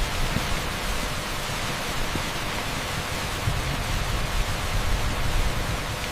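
Torrential rain pouring onto asphalt: a dense, steady hiss with an uneven low rumble underneath.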